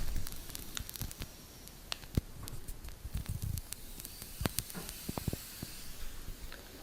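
Low rumbling noise with irregular crackles and sharp clicks and pops scattered through it.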